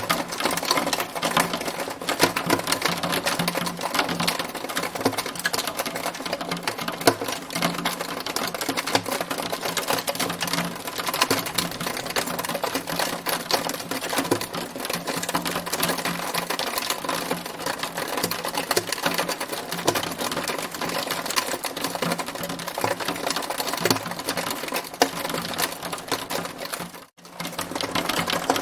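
Hailstones striking a hard surface in a dense, rapid, continuous clatter of small ticks, briefly cutting out near the end.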